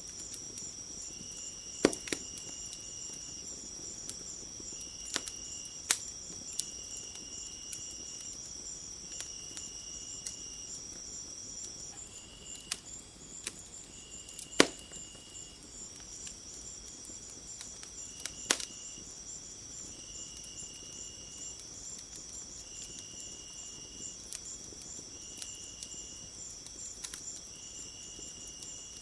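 Crickets or other insects chirping steadily, a high continuous trill that pauses for a few seconds midway, with a second insect calling in short repeated bursts. Now and then a wood fire gives a sharp crackle or pop, the loudest about halfway through.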